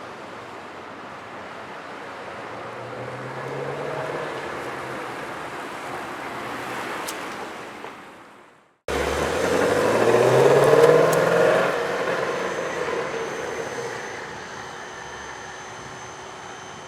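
2020 Ford Mustang Shelby GT350's 5.2-litre flat-plane-crank V8 running, with a rise in revs about three to four seconds in. After an abrupt cut near nine seconds it comes back louder and revs up, loudest about eleven seconds in, then settles back down.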